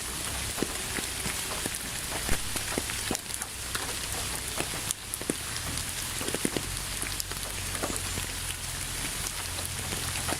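Steady rain falling, with a dense patter of individual drops ticking sharply, one louder drop about two seconds in.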